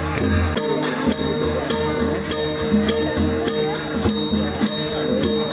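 Traditional dance-accompaniment percussion: cymbals clashing in a steady beat a few times a second over drum thumps and a long, steady ringing gong tone.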